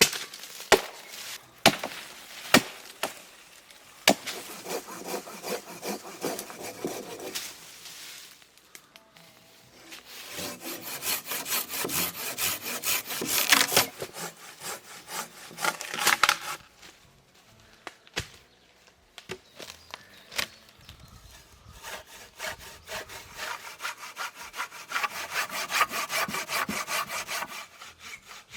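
Hand saw cutting through wood in three long spells of quick back-and-forth strokes, with short pauses between them; a few sharp wooden knocks come before the first spell.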